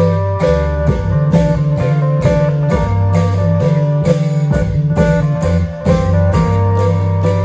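Isan klong yao (long drum) ensemble playing: drum and cymbal strokes on an even beat of about two a second, under a sustained bass and a plucked-string melody.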